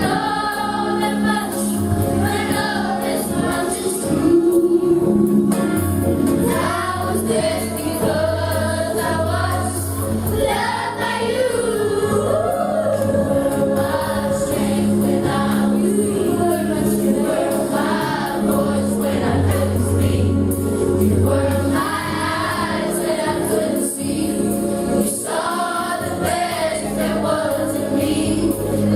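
Choir singing gospel music with instrumental accompaniment and a steady bass line.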